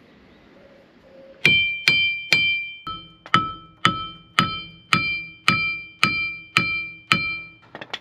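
A steel hammer striking metal about a dozen times, about two blows a second, each blow ringing out, then a quick flurry of lighter taps near the end. The hammering is driving on a seized Ford Transit Custom driveshaft to free it from the wheel hub.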